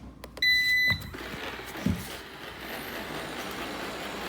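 Eufy robot vacuum beeping once, a steady half-second tone, as it is switched on, then its fan and brushes starting and running steadily. A short low knock sounds about two seconds in.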